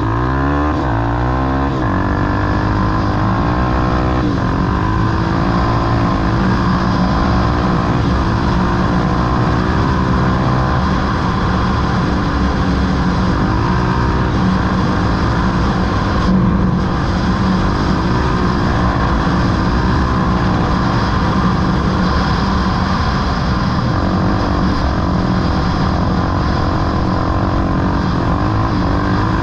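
Off-road vehicle engine (ATV or dirt bike) running hard under load, its pitch rising and falling repeatedly as the throttle is worked and gears change.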